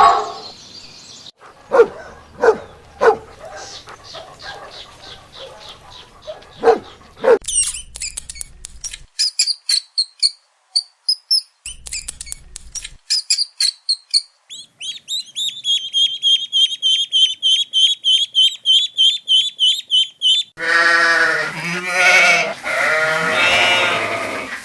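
A run of different animal calls. First a few short, sharp calls, then high chirping calls, then a fast, even trill, and in the last few seconds loud, wavering bleats.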